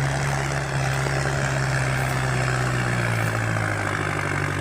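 Kubota M6040 tractor's diesel engine running steadily under load as it works through deep mud, a constant low drone.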